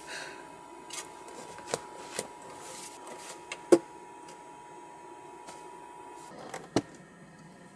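Scattered clicks and knocks of small objects being handled, the loudest about four seconds in, over a faint steady tone that stops about six seconds in.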